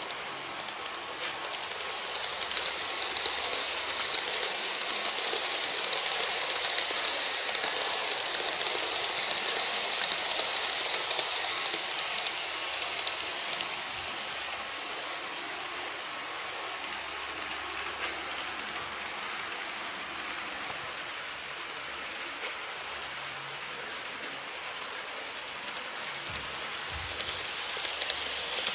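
Model train running along the track of a layout: a high, hissy rattle of wheels and motor that grows louder as it comes near, then drops to a quieter steady run for the second half.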